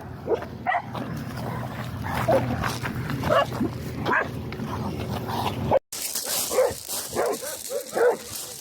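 A dog barking repeatedly. After a brief dropout about six seconds in, the barks come quicker, about two a second.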